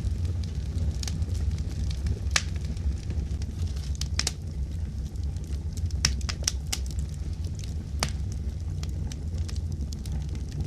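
Fireplace fire crackling: sharp pops every second or so over a steady low rumble.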